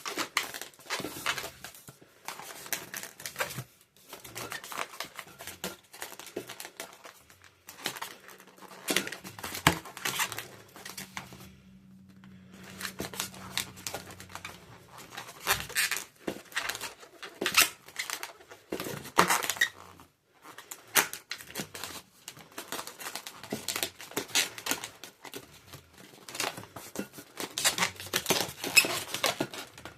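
Latex twisting balloons being handled and twisted: rapid, irregular rubber rubbing, crinkling and squeaking. A low steady drone runs for several seconds in the middle.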